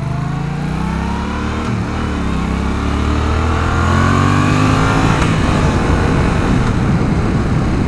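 Yamaha FZ-07's 689 cc parallel-twin engine accelerating hard out of a turn, its pitch climbing and then dropping back at two upshifts, about two and five seconds in. Wind rush over the microphone grows as the speed builds.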